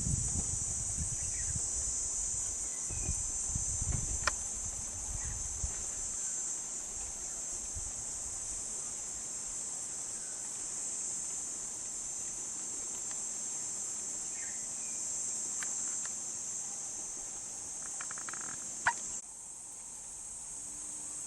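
A steady high-pitched chorus of insects, crickets or cicadas, trilling without a break. There is a low rumble during the first six seconds and a single sharp click about nineteen seconds in.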